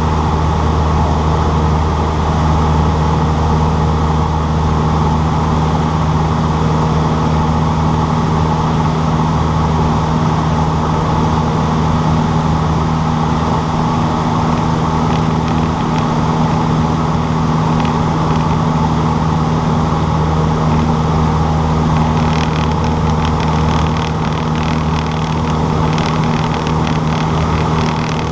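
Cessna 152's four-cylinder Lycoming piston engine and propeller running at a steady, unchanging drone. Light crackling joins in over the last few seconds.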